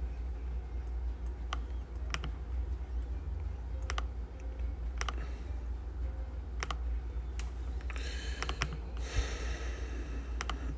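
Scattered sharp clicks of computer keys, a few each couple of seconds, over a steady low hum, with a brief rustling hiss about nine seconds in.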